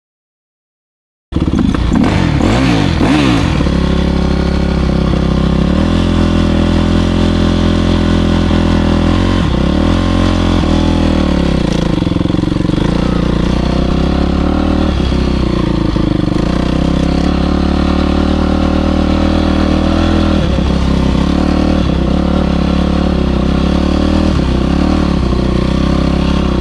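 Motocross bike engine running under a rider, pitch dipping and rising as the throttle is rolled off and opened again, after a brief silent gap at the very start.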